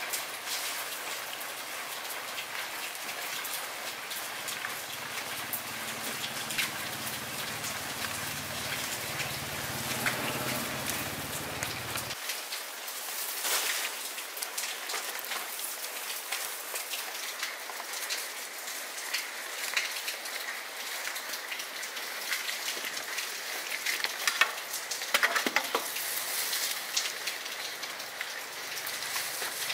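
Steady rain falling on a hard surface, a continuous hiss with many small ticks of individual drops.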